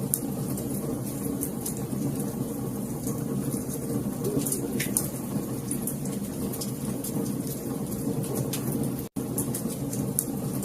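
Wood fire crackling in a fireplace: a steady low rumble of burning with scattered sharp pops and snaps. The sound drops out for an instant about nine seconds in.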